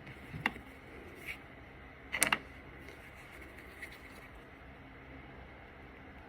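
A few small sharp clicks and taps of makeup products being handled: one about half a second in, a faint one a moment later, and a louder quick run of clicks a little past two seconds, over a steady low hiss.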